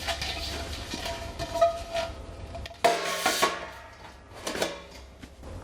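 Metal parts of a fire-pit stove clinking and clanking as they are handled and fitted together, with a loud metallic clank about three seconds in that rings on briefly, and a smaller clank near the end.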